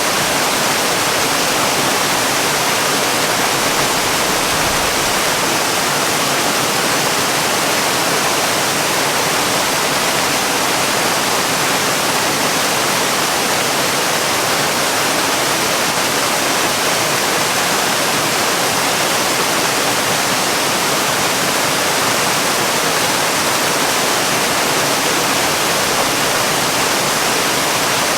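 Waterfall: a steady, unbroken rush of falling water, even and hiss-like.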